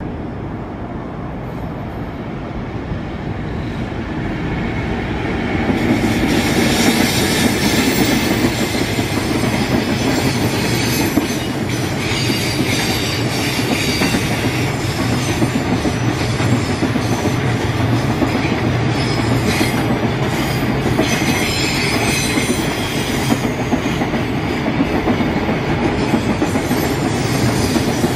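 Freight train of container wagons passing through the station. The wheels-on-rails noise grows over the first six seconds as the train draws near, then holds steady as the long line of wagons goes by.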